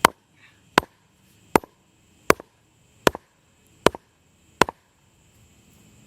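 Sledgehammer striking a block seven times, about three-quarters of a second apart, each blow with a small second knock just after: driving the high end of the block down to level it.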